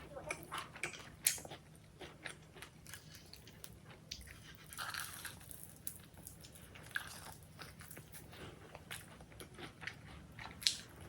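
A person biting and chewing crunchy food close to the microphone: irregular crisp crunches, with a few louder bites about a second in and near the end.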